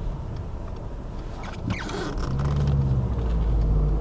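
Cabin drone of a 2006 Volkswagen Jetta TDI's diesel engine and road rumble while driving. About two seconds in, a steadier low hum comes in and the sound gets a little louder.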